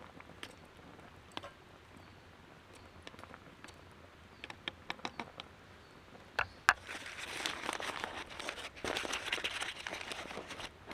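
Scattered small clicks and taps, then, from about seven seconds in, continuous crinkly rustling and crunching.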